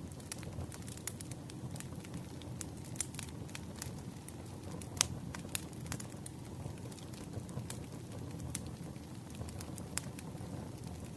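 Wood campfire crackling: irregular sharp pops and snaps over a steady low rumble, with one louder pop about halfway through.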